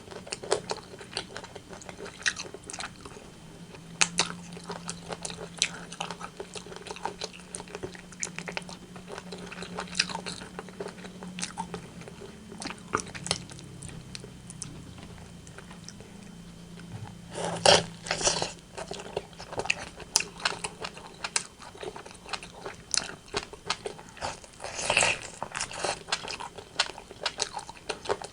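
Close-miked eating of rotisserie chicken: steady biting and chewing with many sharp crunches and wet mouth clicks, louder clusters of bites about two thirds of the way in and again near the end.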